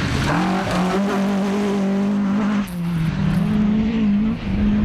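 Rally car engine running hard at high revs, its note climbing at first and then held. It drops for a moment about two and a half seconds in, then climbs back and runs on.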